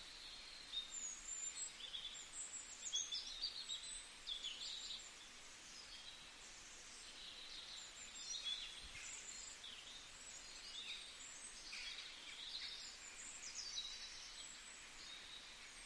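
Faint birdsong: quick chirps and short downward-sweeping calls, repeating, over a steady background hiss.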